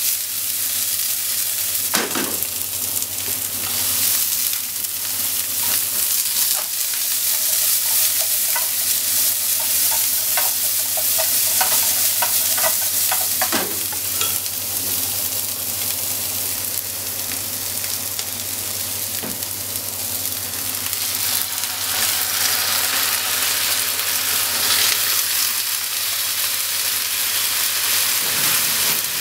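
Sliced onions sizzling in oil in a non-stick frying pan over a gas flame, the pan shaken and stirred, with a few sharp knocks of pan and utensil. The sizzling turns brighter about two-thirds of the way through, where marinated pork slices go into the pan.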